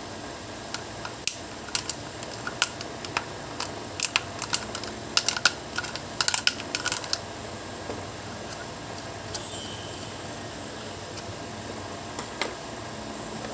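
Irregular small clicks and taps, thickest in the first half, with a couple more near the end, over a steady faint hiss.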